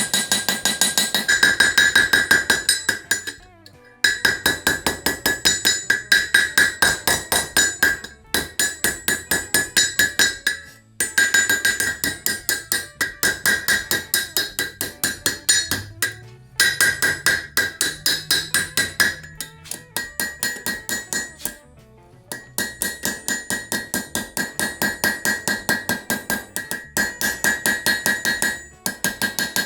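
Rapid, even hammer blows on iron over an anvil, about five a second, with a clear metallic ring. They come in runs of several seconds broken by short pauses.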